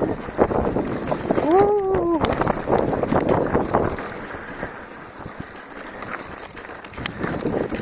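Bicycle rattling and clattering as it is ridden over a rough dirt track. A brief pitched tone rises and falls about two seconds in.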